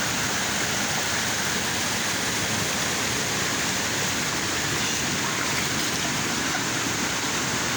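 River water rushing over rocks, a steady unbroken wash of noise.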